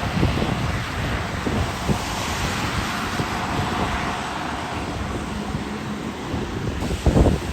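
Convoy of utility trucks passing on a road: a steady rush of engines and tyres with a low rumble, and wind buffeting the microphone. A louder low rumble comes near the end.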